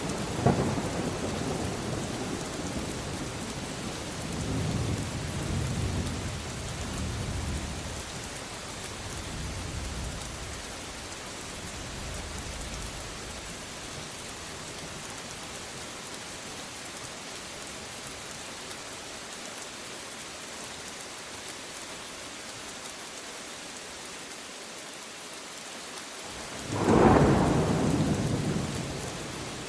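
Steady rain hissing throughout, with rolling thunder rumbling low and fading away over the first dozen seconds. Near the end a sudden, loud crack of thunder breaks out and rumbles off.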